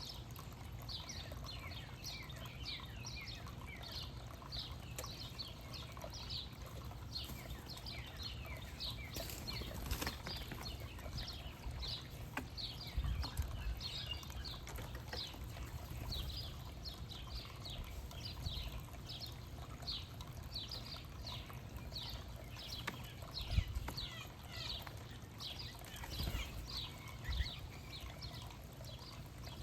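Small songbirds chirping continuously, a dense run of short, downward-slurred chirps from several birds at once, over a steady low rumble.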